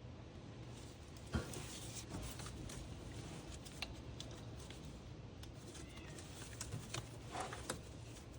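Scattered clicks, light knocks and rustles of hands working the plastic electrical connectors and hoses on an engine, with a sharper knock about a second and a half in and a few quick clicks near the end, over a steady low hum.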